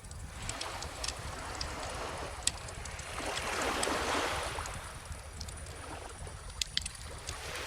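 Wood fire crackling with scattered sharp pops, over small ocean waves; one wave washes in, swelling and fading away around the middle.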